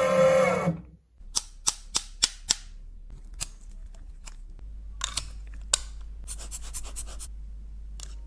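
A steady pitched tone that cuts off within the first second, then a series of sharp clicks or taps of a hard object: five in quick succession, a few scattered ones, a fast run of about eight, and a last one near the end.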